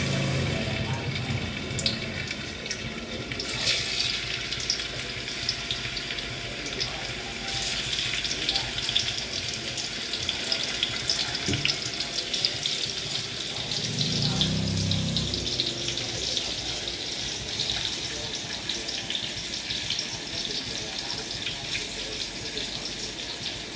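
Marinated tofu frying in hot oil in a steel wok: a steady sizzling hiss with small pops and crackles as more pieces go into the oil.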